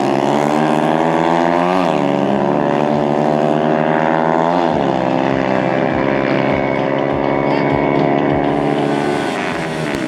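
Dirt bike engine accelerating hard in a drag run, its pitch climbing and then dropping at gear changes about two seconds and about four and a half seconds in, then holding a steady high note.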